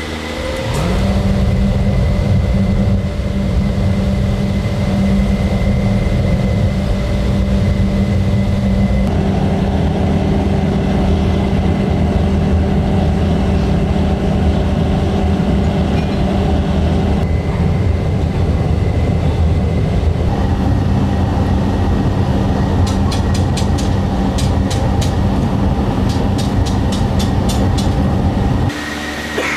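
Heavy factory machinery running with a loud, steady rumble and hum. Near the end, a quick run of clicks joins in.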